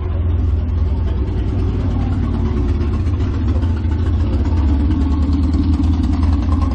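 V8 engine of a Morris Minor running at a loud, steady idle, heavy in the low end.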